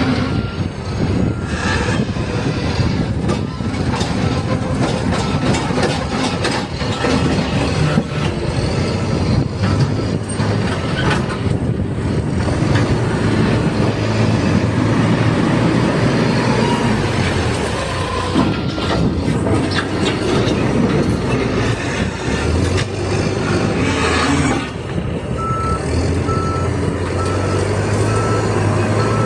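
Diesel engine of a backhoe loader working under load while loading a dump truck, its revs rising and falling, with scattered knocks. A reversing alarm beeps steadily near the end.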